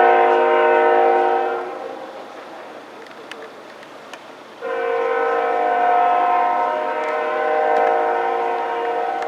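CSX freight locomotive's air horn: one blast cuts off about two seconds in, then after a short gap a second, long blast sounds steadily to the end.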